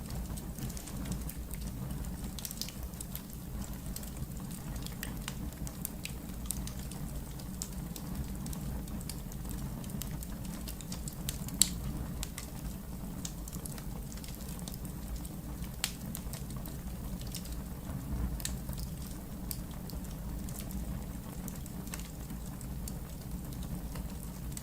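Wood fire burning in a fireplace, crackling with scattered sharp pops over a steady low rumble; one pop about halfway through is louder than the rest.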